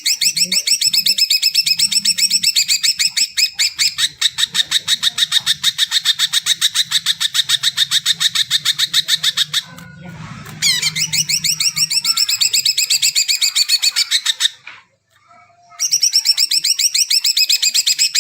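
Cucak ijo (green leafbird) singing in three long, rapid trills of sweeping notes, about eight notes a second, with short pauses between them.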